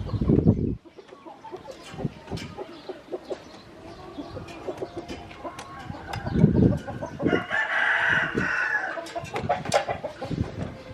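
A rooster crows once, about seven seconds in, among scattered sharp taps and clicks and a couple of low thuds.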